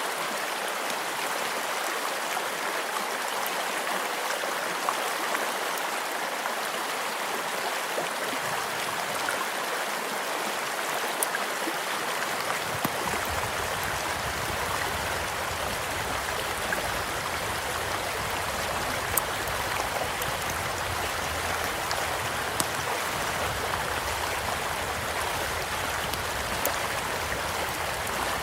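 A stream flowing steadily with an even rushing sound, and the occasional sharp pop and crackle of a wood campfire beside it. A low rumble joins in about halfway through.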